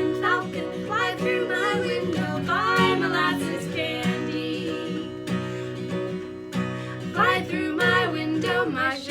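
A woman singing a children's song to a strummed acoustic guitar.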